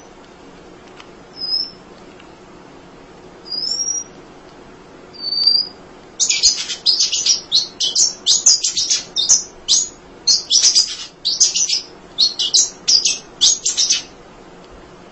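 Munia (emprit) singing: a few single thin, high whistled notes a second or two apart, then, from about six seconds in, a fast run of high chattering notes that lasts about eight seconds.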